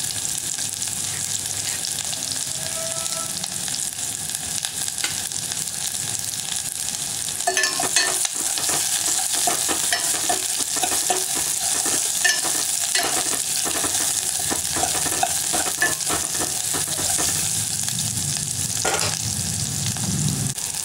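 Shallots and garlic with curry leaves and dried red chillies sizzling in hot oil in a steel pot. From about seven seconds in, a spoon stirs them, clicking and scraping against the metal.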